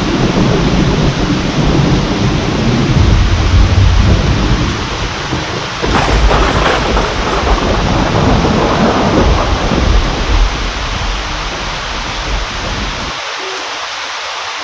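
Heavy rain falling steadily with rolling thunder rumbling underneath; a sharper thunderclap breaks about six seconds in, and near the end the rumble dies away, leaving the rain.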